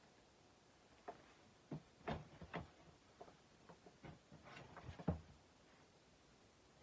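Light knocks and clicks from something being handled, about nine at irregular spacing over a few seconds, the loudest near the end, against near silence.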